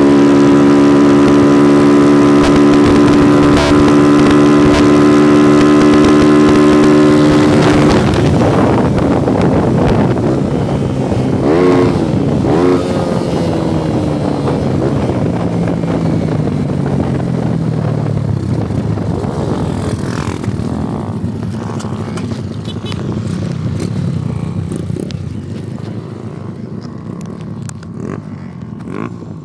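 Honda CG single-cylinder motorcycle engine running loud at steady high revs for about eight seconds, then the throttle is closed and the engine note falls away in several dropping glides as the bike slows, growing fainter toward the end.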